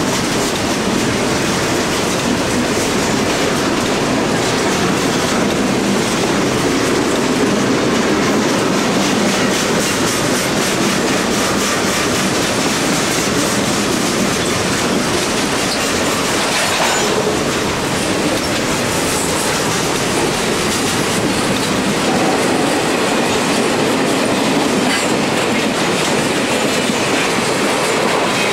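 Freight train cars rolling steadily past close by, steel wheels clicking over the rail joints in a constant rumble.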